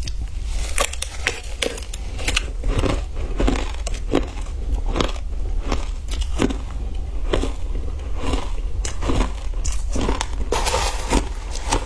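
Ice being bitten and chewed close to the microphone: a quick, irregular run of crisp crunches, two or three a second.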